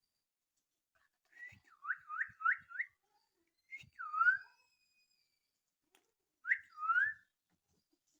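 A young parakeet making clear whistled calls that swoop down and back up: a quick run of four, then one more, then a pair near the end.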